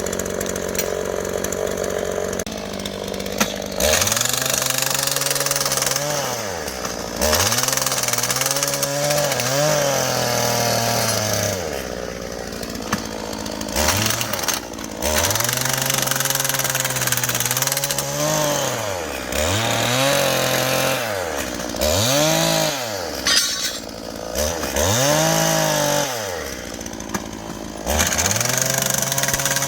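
Small petrol engine of a portable track-maintenance tool, idling and then repeatedly revved up and let back down, about a dozen short bursts each lasting one to two seconds.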